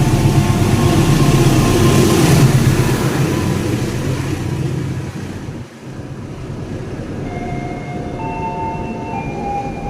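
KA Bima passenger train running through the station without stopping: a loud rumble and rail noise for the first half, dropping off sharply a little past halfway, then a quieter steady rolling noise with a few faint high tones.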